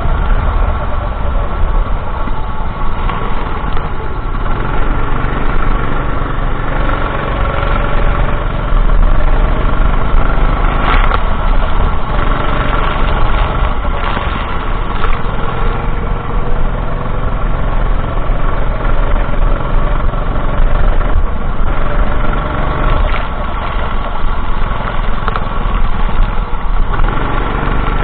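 Go-kart engine running under racing load, its pitch rising and falling with the throttle.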